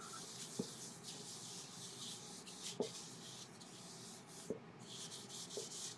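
Faint rubbing of a cloth over a laburnum wood bowl while Danish oil is worked into it, in strokes of a second or two, with a few light knocks.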